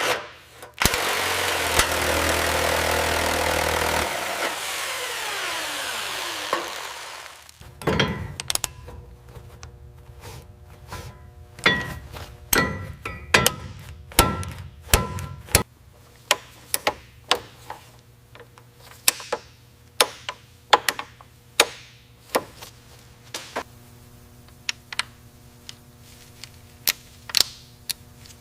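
A power tool runs loudly for a few seconds, then winds down, falling in pitch, and stops. It is followed by a long series of sharp clicks and knocks from tools being used on metal parts, over faint background music.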